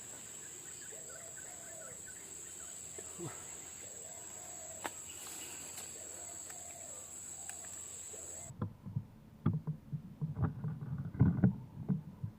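A steady high insect drone with repeated soft cooing calls, like those of a spotted dove. After about eight and a half seconds the drone cuts off abruptly, and irregular low thumps and rustling take over.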